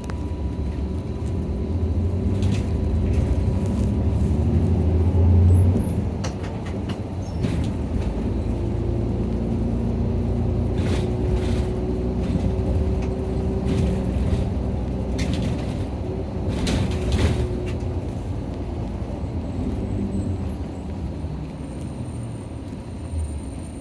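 Inside a Nissan Diesel PKG-RA274KAN route bus under way: the diesel engine and drivetrain running with road noise, building to a peak about five seconds in. A couple of short hisses come later on.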